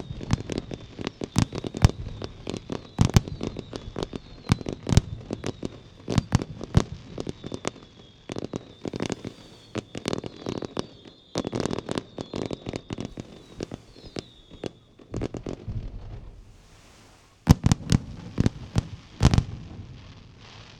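Aerial fireworks display: rapid volleys of shell bursts and crackles, with a thin high whistle running under them for most of the time. After a short lull, a few heavy bangs come near the end.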